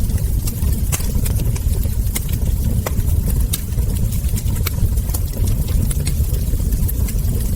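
Wood fire crackling: irregular sharp pops and snaps of burning logs and embers, several a second, over a steady low rumble.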